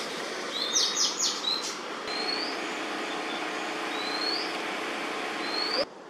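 Small songbirds calling: a quick run of three or four sharp notes about a second in, then a short rising whistle repeated three times, over a steady background noise.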